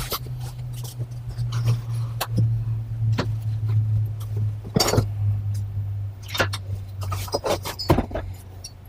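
Garage door opener parts and packaging being handled while unboxing: scattered knocks, clicks and rustles over a steady low hum that fades out near the end.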